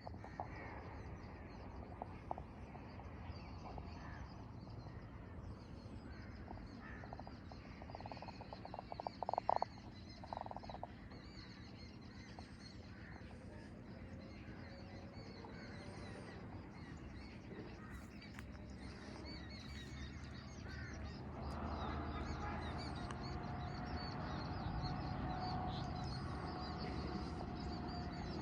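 Wild birds calling outdoors: many small high chirps throughout, with a few louder calls about nine to ten seconds in. In the last quarter a steady low rumble grows louder underneath.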